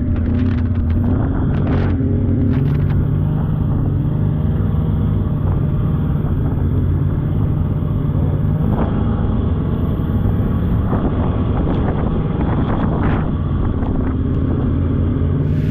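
Polaris snowmobile running steadily under way on a trail, its engine holding a fairly even pitch, with a few short knocks in the first few seconds and again late on.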